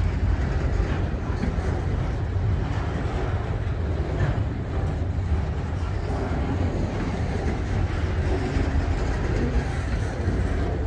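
Freight train of autorack cars rolling past: a steady, deep rumble of steel wheels on rail.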